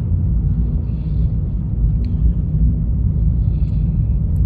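2020 Honda Fit driving on the road: a steady low rumble of tyres and engine.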